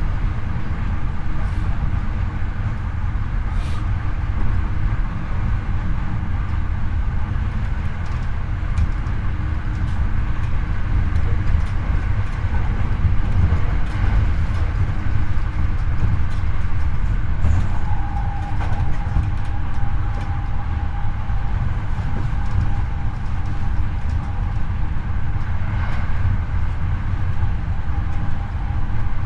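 Running noise of a Hankyu 8300-series electric train heard from the floor of the car above its bogie: a steady rumble of wheels on rail. A faint steady tone runs under it, and a higher steady whine joins about 18 seconds in.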